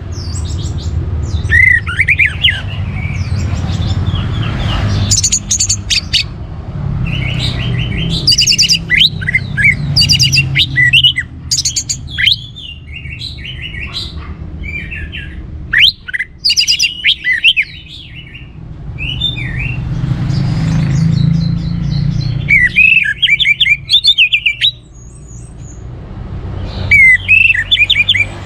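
Orange-headed thrush singing: bursts of varied high whistled and chattering phrases with short pauses between them, over a steady low rumble.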